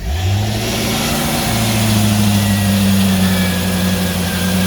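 1986 Sundancer boat's sterndrive engine catching and settling into a steady idle, run out of the water on flush muffs. It starts right at the beginning and holds an even low hum.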